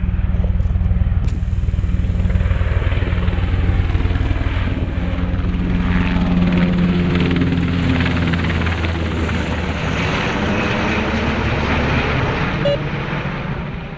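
HH-60 Pave Hawk helicopter flying past close, its rotor and turbine sound steady and loud. Its pitch drops about halfway through as it passes, and it fades near the end.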